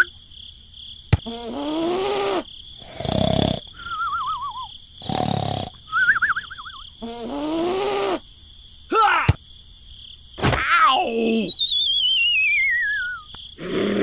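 Cartoon sound effects: squeaky, gibberish character voices, short whooshing bursts, and warbling whistle glides. The longest whistle falls slowly near the end.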